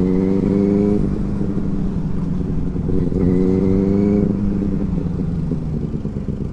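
Benelli 600i's inline-four engine under way, its note climbing as it pulls, then falling away about a second in; it climbs again about three seconds in and drops off once more.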